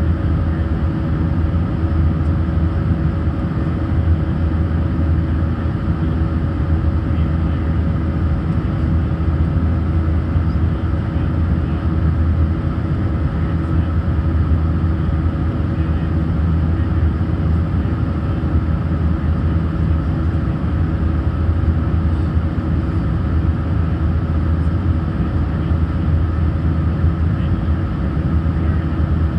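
Airbus A319 cabin noise from a window seat: steady jet engine drone and airflow rumble, with a few constant hums over it.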